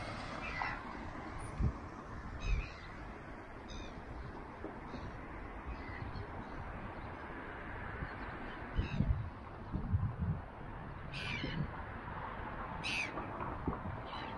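Short bird calls a few seconds apart over a steady outdoor background hiss, with a few low bumps.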